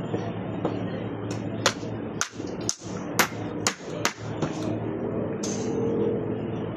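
Hammering at a construction site: about seven sharp, irregularly spaced strikes over a steady low background hum.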